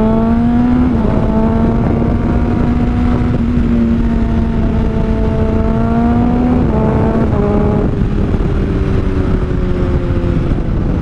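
Honda CBR600RR inline-four engine through a Toce aftermarket exhaust, accelerating under way: the pitch climbs steadily and drops sharply at upshifts about a second in and again around six and a half and eight seconds in, then eases down. Heavy wind noise from riding speed runs underneath.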